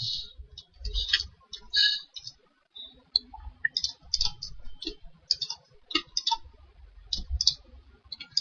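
Computer mouse clicking in irregular runs of short, sharp clicks, often in quick pairs, as commands and curves are picked in the modelling software.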